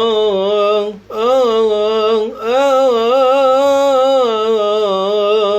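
A man's voice singing a nasheed line without words, a long melismatic phrase with vibrato, breaking briefly twice for breath.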